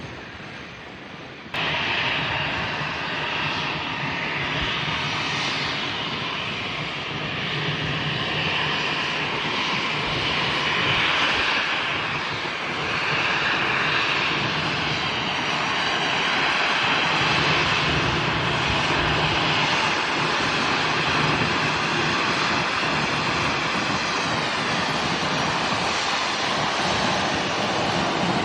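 Airliner engines running loud and steady at an airport, the sound cutting in abruptly about a second and a half in. A faint whine shifts in pitch near the end.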